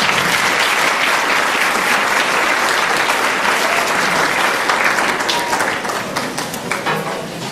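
Concert audience applauding, thinning to scattered claps near the end.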